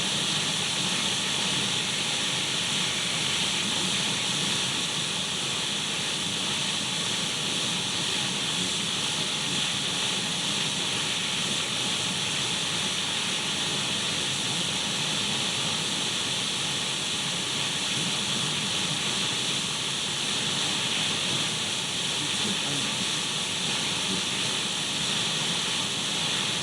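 Steady radio static: the even hiss of a radio tuned between stations, strongest in the upper-middle range and unchanging throughout.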